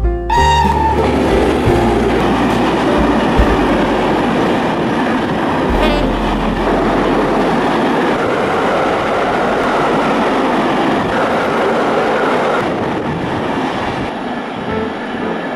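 Train running on its track: a steady rumbling rattle of wheels on rails that eases off slightly near the end.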